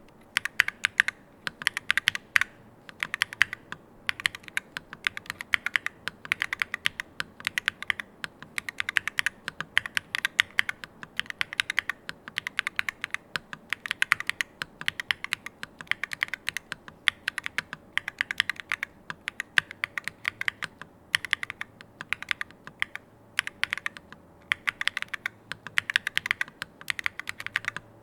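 Fast typing on a Vella PE custom keyboard with SquisHE Hall effect magnetic switches, PBT keycaps, an aluminium plate and gummy O-ring mounting: dense runs of keystroke clacks broken by short pauses.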